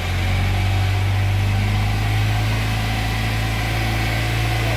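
Toyota Kijang Kapsul injection engine revved up at the start and then held at a steady raised speed of about 3000–3500 rpm. It is being run to burn leftover foam carbon cleaner out of the combustion chambers through the exhaust after a tune-up.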